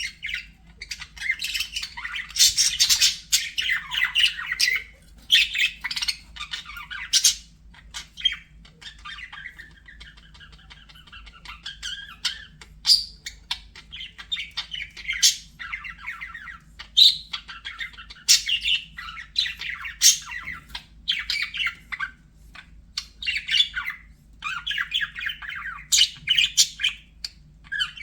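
Budgerigars chattering and warbling, broken by frequent short, sharp squawks and chirps; the chatter drops to a softer warble for a few seconds about a third of the way through.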